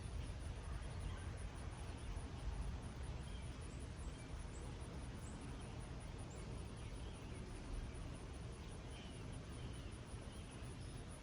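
Light rain falling as a steady hiss over a meadow. A constant high, finely pulsing insect trill runs underneath, and birds give scattered short chirps, several of them between about four and seven seconds in.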